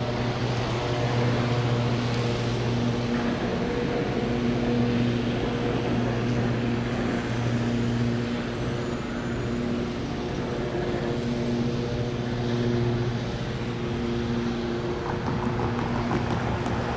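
Road vehicle engines running with a steady low hum that swells and fades, over a constant wash of traffic noise.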